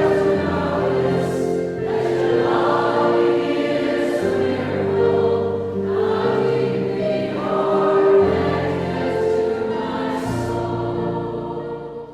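Choral music: a choir singing long held chords over accompaniment, cutting off suddenly at the end.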